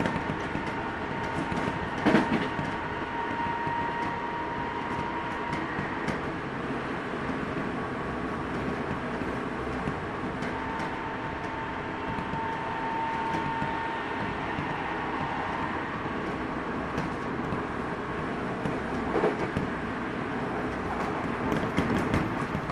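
Odakyu 2000 series electric train (car DeHa 2001) running, with a Mitsubishi Si-IGBT VVVF inverter and WN-drive traction motors: a steady motor whine that comes and goes over the wheel and rail rumble, and a few knocks, the loudest about two seconds in. This car's motor noise is louder than normal for the class.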